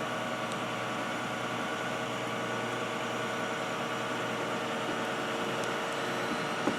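An engine idling steadily: a constant hum with several steady tones over a hiss.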